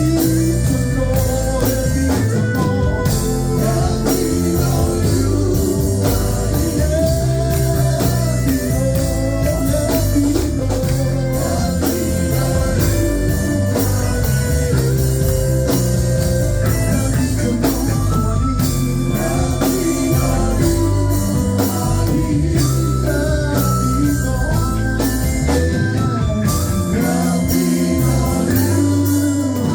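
Live worship band playing, with guitars and drum kit keeping a steady beat and some singing.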